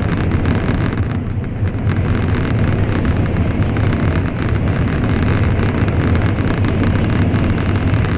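Steady loud rumble of an N700 series Shinkansen running at speed, heard from inside the passenger cabin, deepest in the low end.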